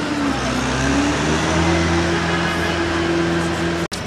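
A motor vehicle engine running close by amid street traffic. Its pitch dips and rises about half a second in, then holds steady, and the sound cuts off suddenly near the end.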